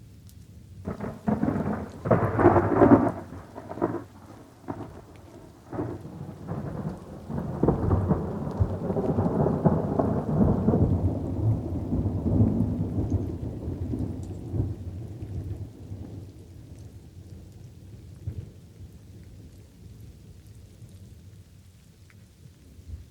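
Thunder cracks sharply in the first few seconds, then rolls in a long low rumble that fades away over about eight seconds. Light rain falls steadily underneath.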